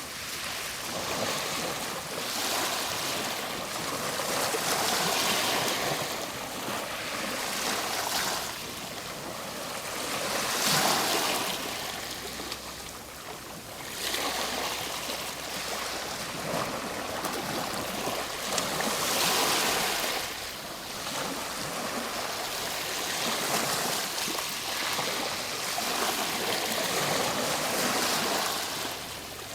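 Ocean waves breaking and washing on a shore, a steady rush of surf that swells and ebbs every few seconds.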